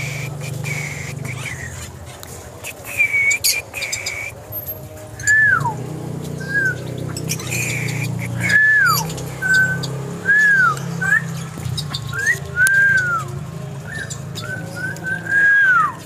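Aviary birds giving clear whistled calls: a couple of held whistles, then a string of short arching whistles that rise and fall, some dropping steeply at the end. A steady low hum runs underneath.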